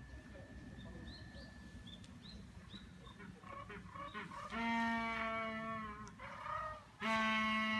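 Humboldt penguin braying: two long, loud, donkey-like calls of steady pitch, one starting about halfway through and the other near the end, with faint short chirps before them.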